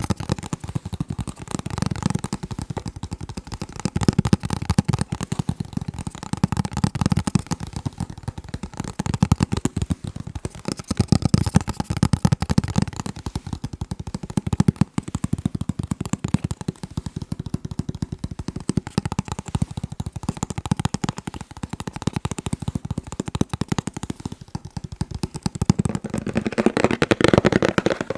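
Fast fingertip tapping on a box: a dense, continuous patter of rapid taps with a low, thudding body. Near the end the taps turn brighter.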